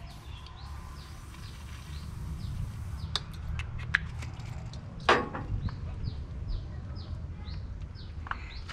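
A small bird chirping over and over in short falling notes, a couple a second, over a low steady rumble, with a few sharp clicks, the loudest about five seconds in.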